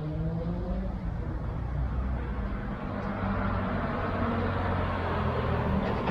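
A car on the street, its engine rising in pitch as it speeds up over the first second, then tyre and road noise swelling as it drives past, loudest near the end.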